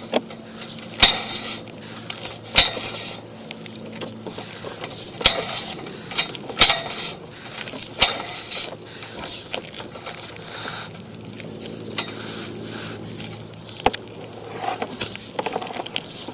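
Irregular sharp clicks and clanks, a few seconds apart, from a sewer inspection camera rig as its push cable is pulled back through the drain line, over a steady low hum.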